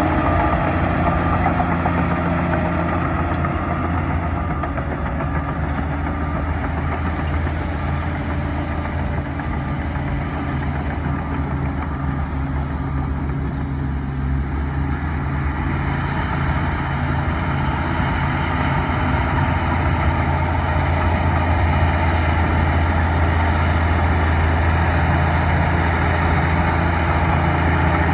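Bulldozer's diesel engine running steadily with a deep, even hum, easing off a little in the middle and building back up towards the end.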